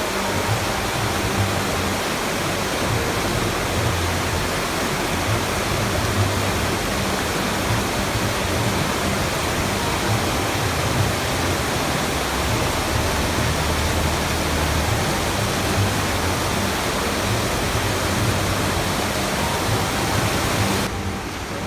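Steady, loud rushing of water, an even hiss and roar with no pauses. It turns slightly quieter and duller just before the end.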